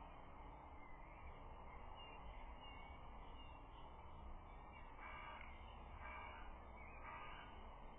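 Faint outdoor bird calls over a steady background hiss, with a few calls standing out between about five and seven and a half seconds in.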